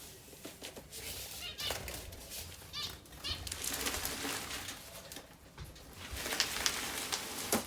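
Scraping and rustling as the waste is scraped out of a bird cage's removed bottom tray, in uneven strokes that come thickest after about three seconds, with a few short zebra finch calls.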